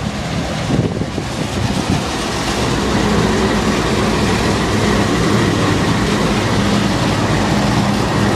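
Freight train passing close by: a loud, steady rumble of wheels and cars on the rails, with a faint steady tone held through it.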